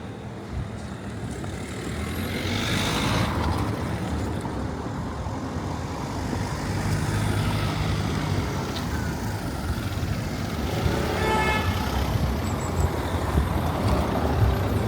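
Road traffic: motor vehicles passing close by with a steady low engine rumble, one passing loudly a couple of seconds in. A brief pitched sound comes about two-thirds of the way through.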